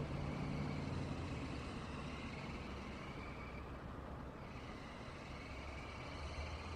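Road traffic: a steady low rumble of passing cars and trucks, easing a little midway and building again near the end.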